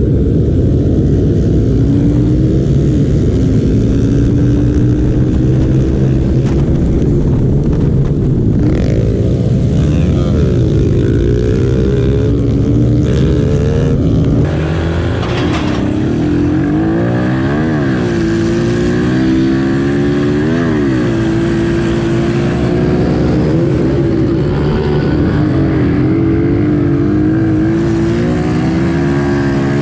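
Several small pit bike engines racing together, overlapping and revving up and down in pitch as the riders work the throttle. The sound dips slightly about halfway through.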